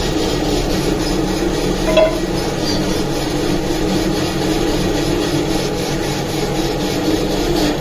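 Steady mechanical running noise, with a single ringing metallic clink about two seconds in.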